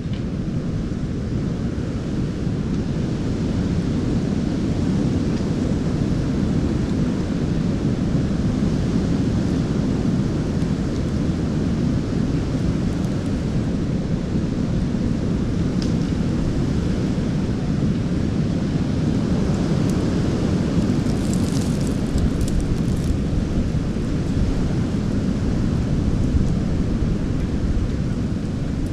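Strong wind buffeting the microphone: a steady, heavy low rushing noise, with a few faint rustles about two-thirds of the way through.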